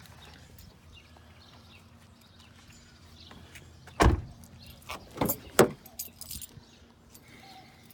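A car door shutting with a heavy thump about four seconds in, then a few sharp latch and handle clicks as a door is worked.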